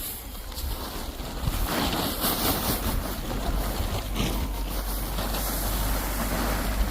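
Wind buffeting the microphone: a steady low rumble under a hiss of rustling noise, with a few brief louder rustles.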